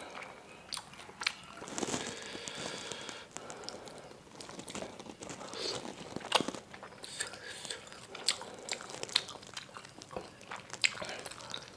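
Close-miked chewing and wet mouth sounds of a person eating meatballs in sauce, with many short sharp clicks and smacks scattered throughout and a noisier, wetter stretch about two seconds in.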